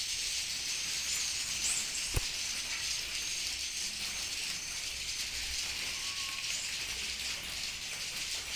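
Dense, steady high-pitched twittering of many swiftlets, a colony's massed chirps merging into a hiss, with a single sharp click about two seconds in.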